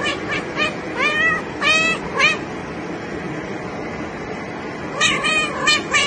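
Cat meowing repeatedly: short calls that rise and fall in pitch, about six in quick succession over the first two seconds, then another cluster near the end.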